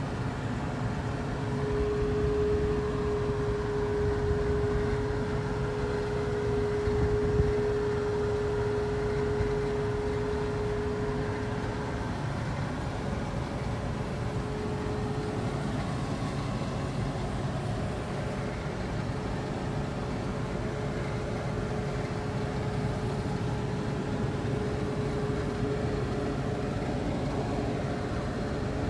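A 1470 hillside combine running steadily while harvesting wheat, a continuous mechanical rumble. A steady whine sounds over it from about two seconds in and fades to faint about halfway through.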